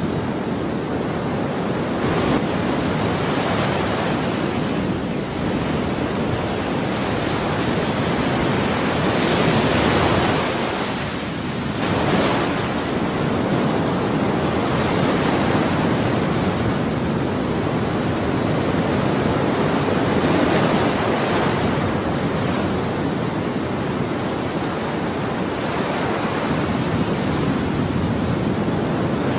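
Ocean waves breaking and washing on a shore in a continuous hiss, swelling and easing slowly, with a brighter surge of surf about ten seconds in and again about two seconds later.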